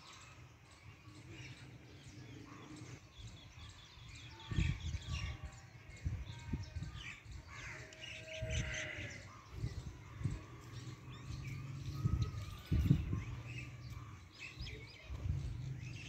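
Birds chirping and calling, many short calls throughout. From about four seconds in, low thumps on the microphone come and go.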